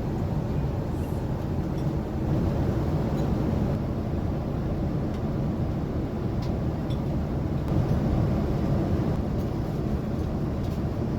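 Steady cabin noise of a Boeing 787-10 airliner in cruise: the even low rush of airflow and engines, with a few faint clicks.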